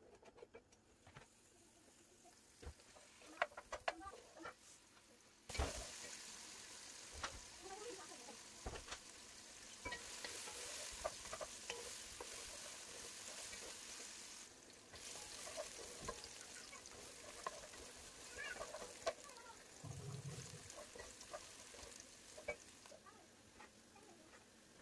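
Sliced onions frying in hot oil in a pot: a dense sizzle that starts suddenly about five seconds in and fades near the end, with the scrape and clack of a wooden spatula stirring. A few sharp knocks of the knife on the cutting board come before the sizzle starts.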